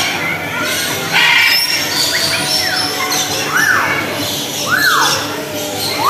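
A flock of aviary birds, parrots among them, calling over a steady din of chatter. A harsh squawk comes about a second in, then a rising-and-falling call repeats about every second and a quarter.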